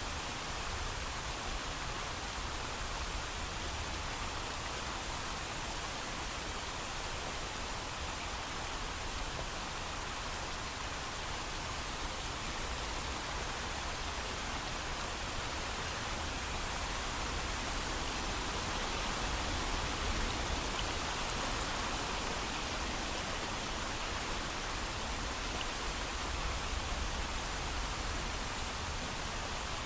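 Steady heavy rainfall, an even hiss with no thunder.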